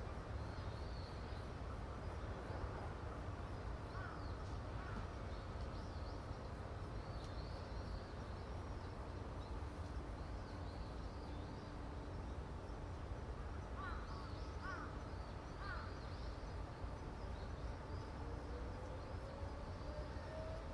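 Crows cawing a few times and small birds chirping over a steady low rumble of outdoor ambience; a faint, slowly rising tone comes in near the end.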